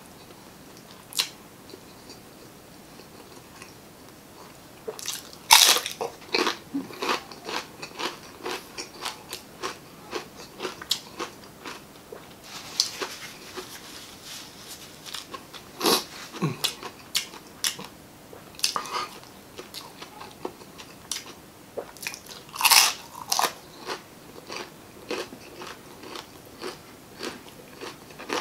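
Crispy fried chicken skin being bitten and chewed close to the microphone. The first few seconds are quiet, then comes a run of sharp crunches, several a second. The loudest bites come about six seconds in and again about twenty-three seconds in.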